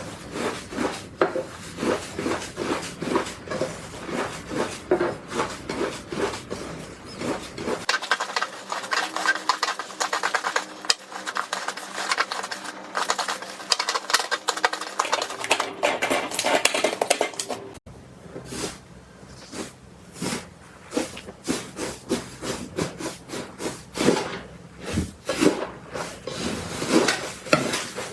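Slime being squished and worked by hand: a continuous run of short, sticky clicks and pops, several a second. The sound turns to a denser, finer crackle for a stretch in the middle, and changes abruptly back to separate squishes about two-thirds of the way through.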